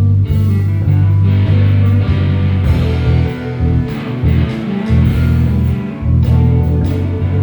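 Live band playing an instrumental passage: electric guitar over bass and drum kit, with keyboard. The bass drops out in places about halfway through.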